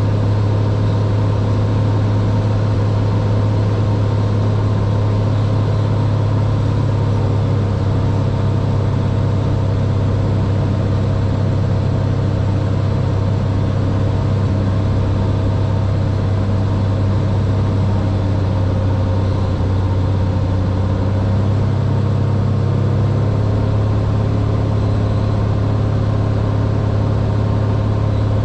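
Cessna 182R's six-cylinder piston engine and propeller running with a loud, steady drone.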